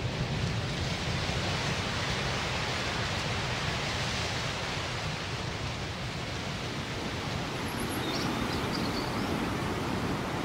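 A steady, even rushing noise with no rhythm, and a few faint, short high chirps about eight seconds in.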